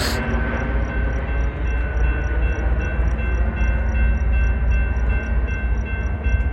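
Railroad grade-crossing warning bells ringing in a quick, even rhythm of about four dings a second, over the steady low rumble of a slow Union Pacific freight train approaching the crossing.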